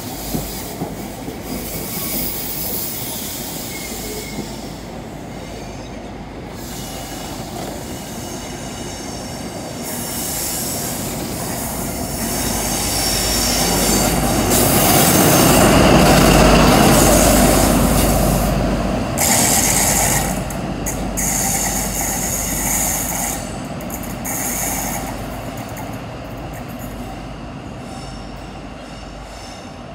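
Midland Pullman HST moving slowly along the platform, its wheels clicking over rail joints. The rumble of a Class 43 power car's diesel engine swells as it passes, loudest about halfway through. Afterwards the wheels squeal on the curved track and the sound fades away.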